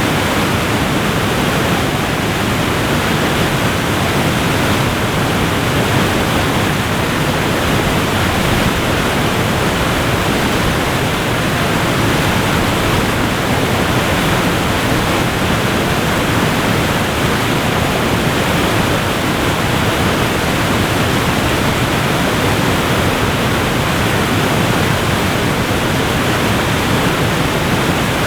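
Waterfall pouring steadily, a constant, unbroken rush of water.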